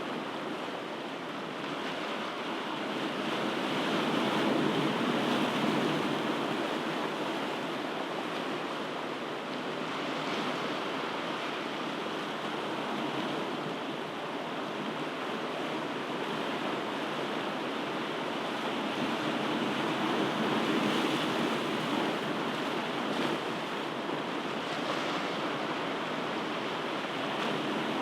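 Ocean surf washing on a shore: a steady rushing noise that swells louder about four to six seconds in and again around twenty seconds in.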